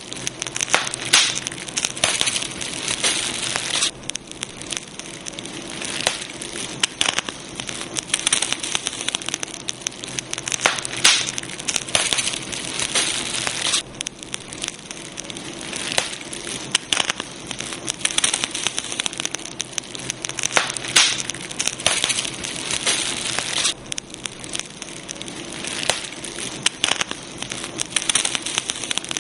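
Campfire burning steadily, wood crackling with many sharp pops over a continuous hiss.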